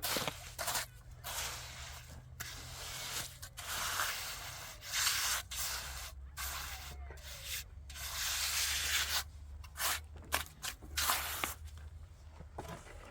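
Irregular rasping, scraping strokes, each lasting a fraction of a second to about a second, with short gaps between them.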